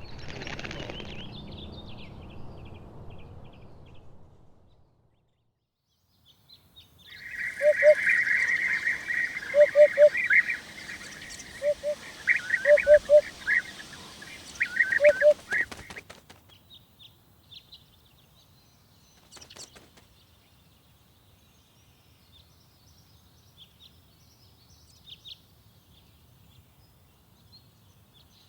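Hoopoe calling: short low 'oop-oop' notes in groups of two or three, repeated about five times over several seconds, under louder chirping of other birds. Faint high chirps follow.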